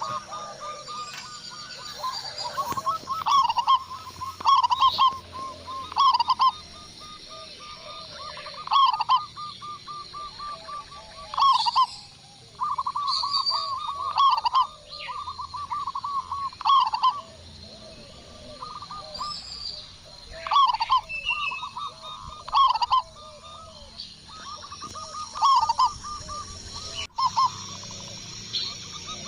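Zebra doves (perkutut) cooing: repeated bouts of rapid, stuttering coo notes, with short higher chirps mixed in between.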